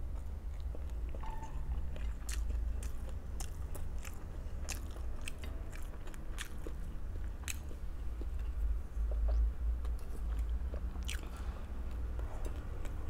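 Close-miked person chewing and biting food, with scattered sharp crunches and mouth clicks over a steady low hum.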